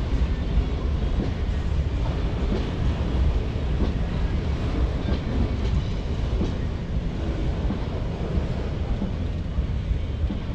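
Freight train rolling past, a steady rumble of wheels on rails that holds level throughout.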